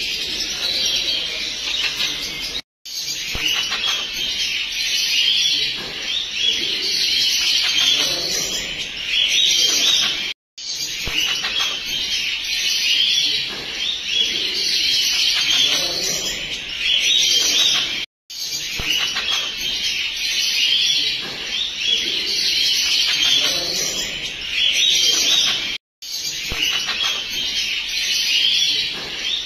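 Bird chirping and twittering, a short recording repeated over and over, with a brief dead gap about every eight seconds where the loop restarts.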